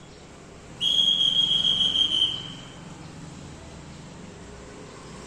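A loud, steady, high-pitched whistling tone held for about two seconds, starting about a second in, over a low background hum.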